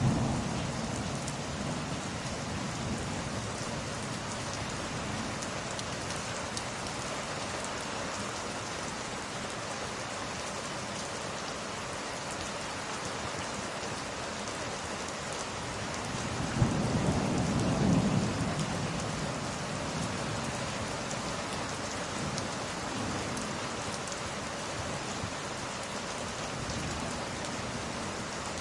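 Steady rain falling, with a low roll of thunder a little past halfway through and the tail of an earlier rumble fading in the first second.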